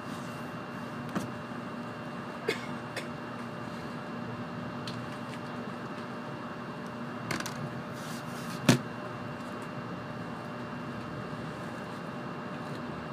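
Inside the cabin of a 700 series Shinkansen train pulling slowly out of the station: a steady hum of the train's running with a few faint steady tones, broken by several short sharp knocks, the loudest about two-thirds of the way in.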